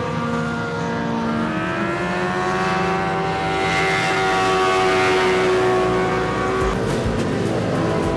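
A racing engine passing at speed on a race track. Its pitch rises as it comes closer, it is loudest about halfway through, and the pitch falls as it moves away.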